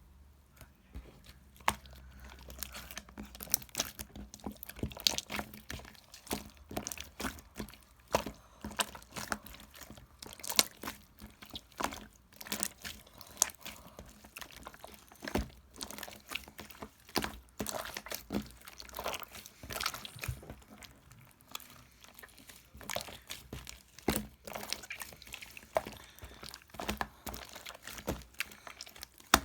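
Irregular small clicks, taps and crinkling from objects being handled close to the microphone.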